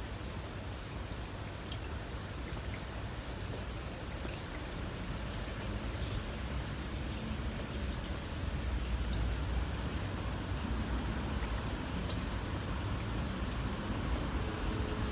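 Light rain falling, with a steady high insect trill running underneath. A low rumble of road traffic swells about halfway through.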